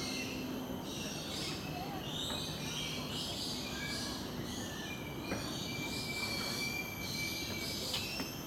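Bird chirping and whistling: a busy run of short high calls, with one long steady whistle held for about three seconds near the middle.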